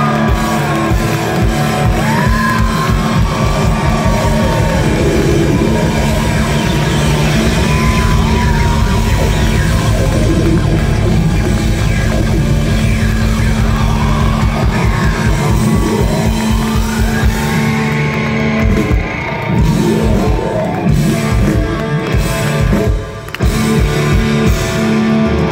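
Live punk rock band playing a loud, fast instrumental passage, with driving drums and distorted guitars bending notes, and a brief break about three-quarters of the way through.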